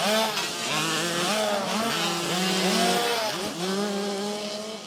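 Several motocross bikes revving, their engine notes rising and falling and overlapping as the bikes run through the track.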